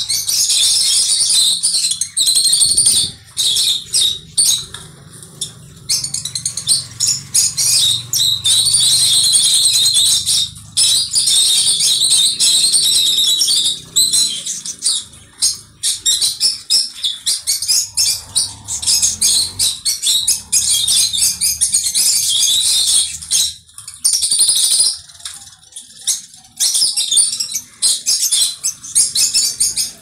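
Cage birds in an aviary chattering and chirping continuously, a high, dense twittering that pauses briefly every few seconds.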